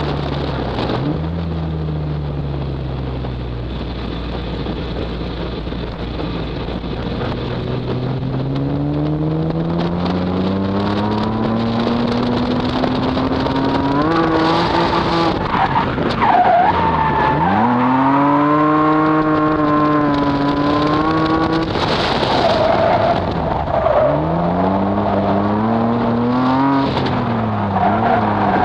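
Naturally aspirated RB25DE straight-six of an R32 Nissan Skyline under hard driving: it climbs in pitch for about ten seconds, drops sharply about halfway through, then rises and falls a few more times with the throttle through the drifts. Tyres squeal through the slides in the second half.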